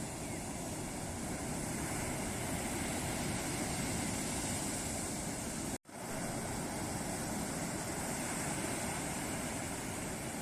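Ocean surf washing steadily onto a beach, a continuous hiss and rumble of breaking waves. It cuts out to silence for an instant a little past halfway, then resumes.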